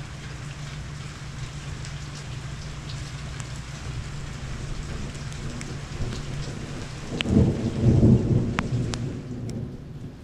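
Monsoon thunderstorm: steady rain falling, with single drops ticking close by, and a loud rumble of thunder that builds about seven seconds in, peaks a second later and then rolls away.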